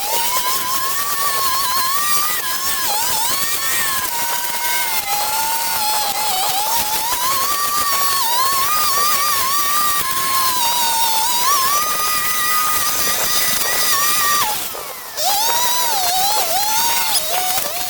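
A small power tool's motor whining steadily, its pitch wandering up and down as the load changes, with a short break about 15 seconds in.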